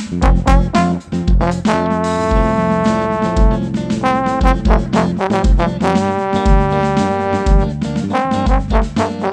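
A band playing with a trombone lead: held brass notes over a steady drum beat and bass.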